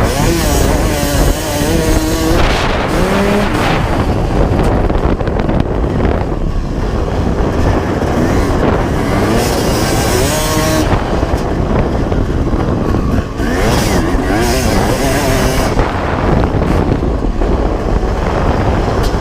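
1995 Honda CR250 two-stroke motocross engine being ridden, its pitch rising and falling again and again as the throttle opens and closes.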